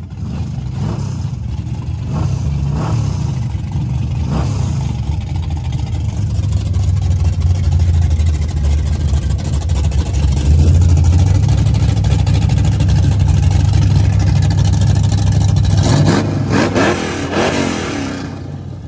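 Drag-race car engines running with a heavy low rumble, blipped up in short revs a few times early on, then revved hard in a cluster of rising sweeps near the end.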